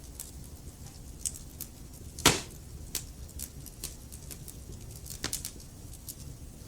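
Wood fire burning in a fireplace, a low steady rumble under scattered crackles and pops. One loud snap comes a little over two seconds in, and a quick cluster of pops follows about five seconds in.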